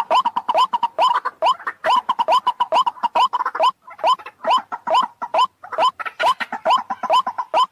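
White-breasted waterhen (ruak-ruak) calling: a fast run of short, hooked, croaking notes repeated about four to five times a second, played as a bird-trapping lure call.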